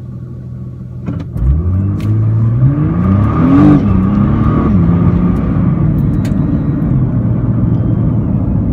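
Nissan GT-R's 3.8-litre twin-turbo V6 accelerating hard from a standstill: the engine note rises for a couple of seconds, drops at a quick dual-clutch upshift, then runs at a steadier pitch.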